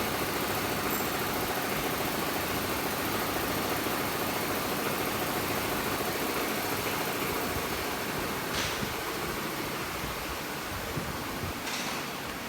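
Steady mechanical running noise with a hiss, starting abruptly, with two faint ticks in the second half.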